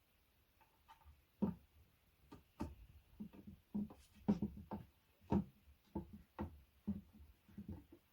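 Irregular light knocks and clicks of flat-pack furniture parts and fittings being handled and worked on during assembly.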